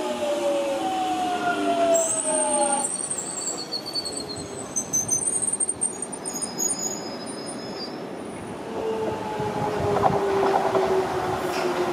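Train at the station: a motor whine that falls in pitch, high-pitched wheel squeal in the middle, then a second falling whine with the clatter of wheels over the track near the end.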